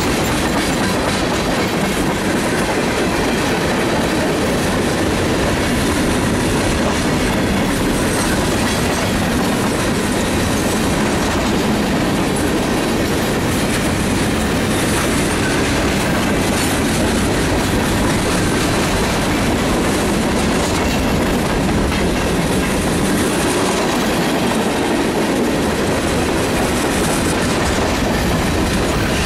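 Freight cars of a mixed freight train rolling past at close range: steel wheels running and clacking on the rails, a loud, steady noise throughout.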